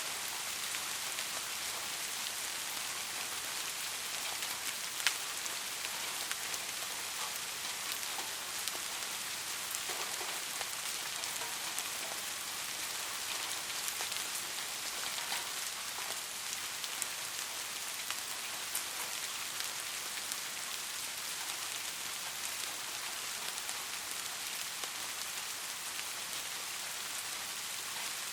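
Steady rain falling: a dense, even hiss of drops with scattered individual drop hits standing out, one sharper tap about five seconds in.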